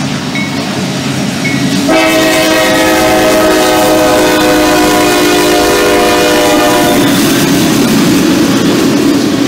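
Horn of a CSX freight train's lead diesel locomotive, sounding one long steady chord that is loudest from about two seconds in until about seven seconds. When the horn stops, the trailing GE diesel locomotives and freight cars are heard rolling past close by.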